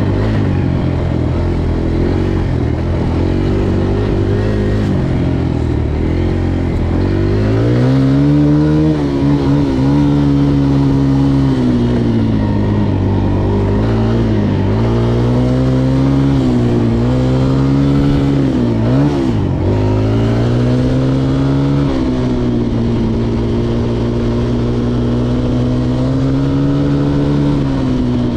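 Dirt bike engine running while riding, its pitch climbing a quarter of the way in, dropping sharply twice in the middle as the throttle eases, then holding a steady note.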